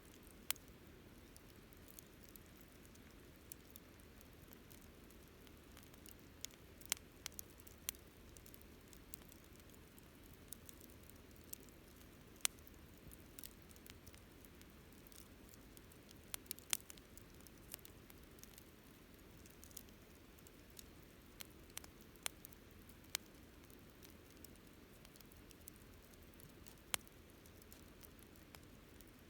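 Wood campfire burning quietly: a soft low hiss of flames with sparse, irregular crackles and sharp pops, a few of them louder.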